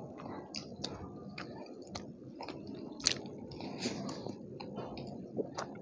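Chewing of rice and curry eaten by hand, with many small mouth clicks and one sharper click about three seconds in.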